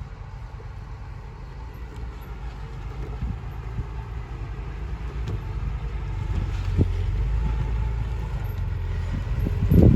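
Heavy construction machine's engine running with a low rumble that grows steadily louder, with a few short knocks or clanks, the loudest of them near the end.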